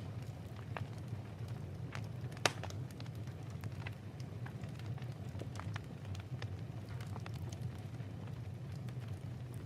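Wood fire crackling in a fireplace, with scattered sharp pops over a steady low rumble and one louder pop about two and a half seconds in.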